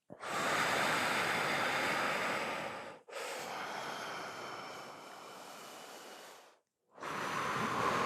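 A person breathing deeply and forcefully in full-to-empty breathwork: a long, loud breath of about three seconds, a softer one of about three and a half seconds that fades away, then another strong breath starting about seven seconds in.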